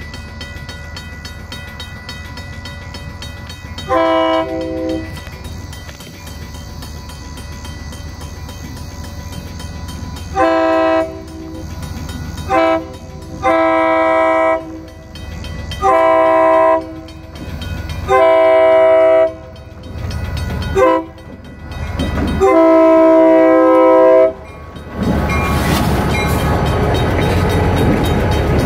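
Diesel locomotive air horn blowing one short blast, then a run of long and short blasts, the pattern sounded when approaching a grade crossing. Near the end the locomotive and its cars pass close by with steady engine and wheel noise.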